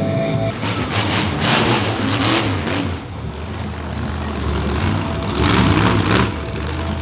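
Monster truck engine revving in two loud surges, one about a second in and another near the end, over a steady low rumble.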